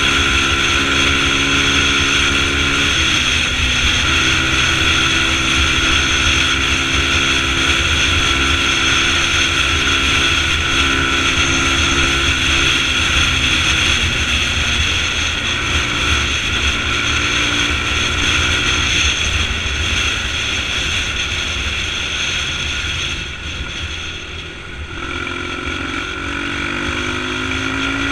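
Motorcycle engine running steadily under way over a low rumble. Near the end it eases off briefly, then picks up again with its pitch rising.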